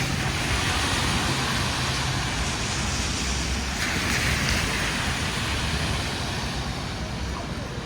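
City street traffic: a steady low rumble of engines with tyre hiss, swelling as a vehicle passes about four seconds in.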